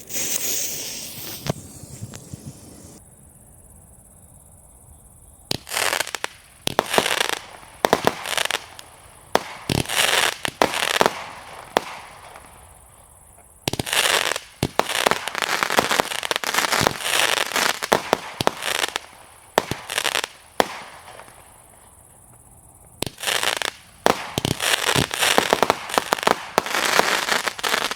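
Borgonovo Blizzard 36-shot 14 mm firework battery firing. A fuse hiss fades over the first few seconds. Then the tubes go off in three quick volleys of sharp bangs, with short pauses between them.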